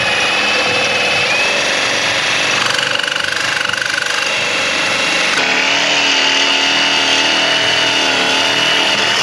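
Reciprocating saw (Sawzall) cutting through the exhaust at a seized flange joint whose bolts and nuts have rusted solid. The blade rasps on steel with a high, wavering ringing over the noise, running without a break and changing tone about five seconds in.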